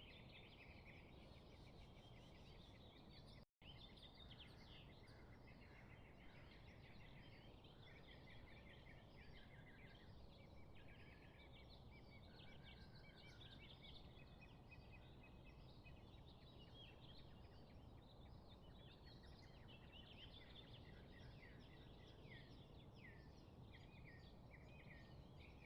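Faint chorus of many small birds chirping and twittering over a steady low background hiss, with a momentary dropout about three and a half seconds in.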